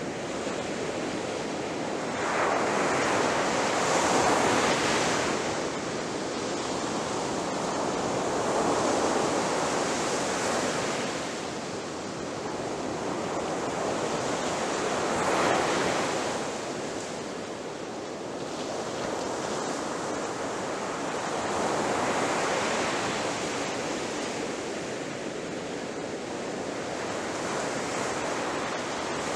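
Ocean waves breaking on a shore, a continuous wash of surf that swells louder as each wave crashes, about every five to seven seconds.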